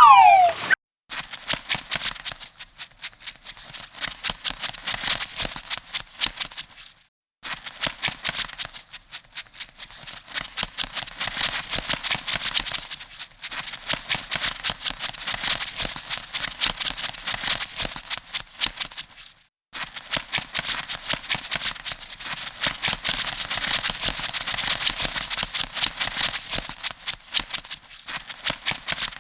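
Crab sound effect: rapid, dry clicking and rattling in long runs, with brief breaks about 7, 13 and 19 seconds in.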